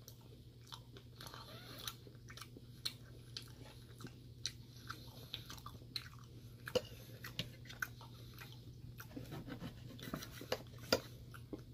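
Soft, close-up chewing of a mouthful of steak: scattered wet mouth clicks and smacks. Near the end, a knife and fork start cutting the steak in a metal bowl.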